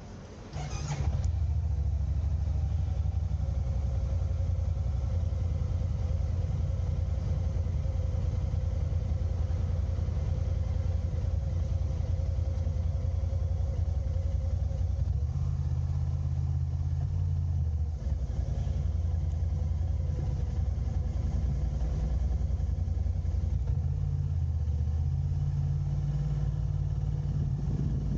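Steady low rumble of a car driving, engine and road noise, starting abruptly about a second in.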